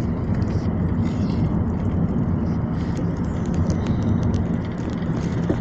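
Steady road and engine noise heard inside a moving car's cabin: a continuous low rumble.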